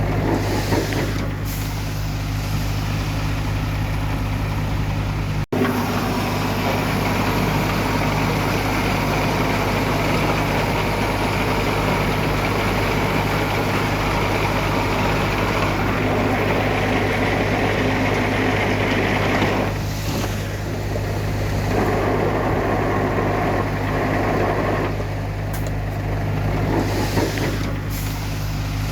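Heavy diesel engines of earthmoving machinery, a bulldozer and dump trucks, running steadily, with a momentary break in the sound about five seconds in.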